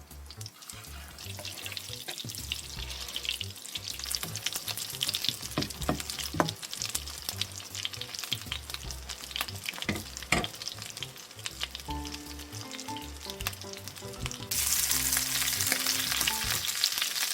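Food frying in a pan, a dense crackling sizzle that gets louder for the last few seconds, over background music.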